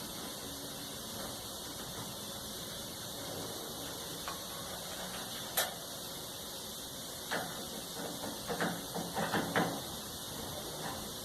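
Clicks and knocks of a hand tool and metal parts being handled while a clothes dryer's door is unscrewed: one sharp click about five and a half seconds in, then a run of short knocks from about seven to nine and a half seconds.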